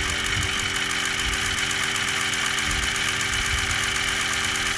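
An engine running steadily with an even mechanical hum and uneven low thumps.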